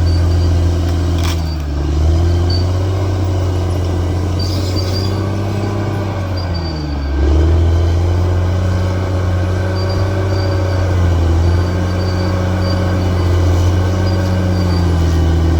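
Bulldozer's diesel engine running steadily under load. Its pitch sags briefly twice, about two seconds in and around seven seconds in, as the engine lugs, then picks back up.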